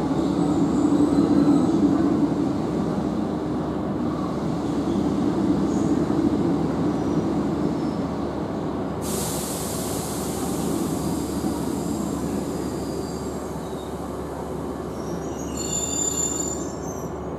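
Low running and rail rumble inside a Class 150 Sprinter diesel multiple unit slowing into a station, with a sudden steady hiss starting about halfway through. Near the end come high-pitched squeals, typical of the brakes or wheels as the train draws to a stop.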